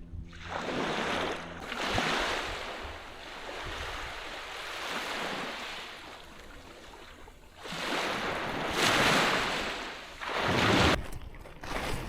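Water washing in repeated surges, like waves breaking and running back, with wind rumbling on the microphone. The swells come and go several times, loudest about nine seconds in and again just before the end.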